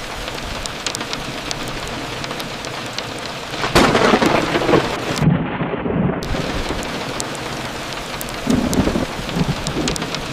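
Steady rain falling, with sharp drip ticks. Thunder cracks and rumbles about a third of the way in, and a smaller rumble comes near the end.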